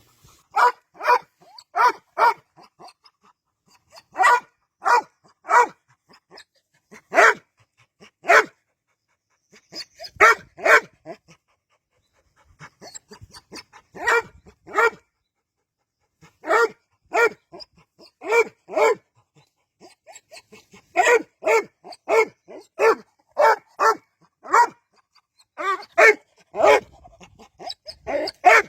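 A dog barking in short runs of two to five barks, with pauses of a second or more between runs.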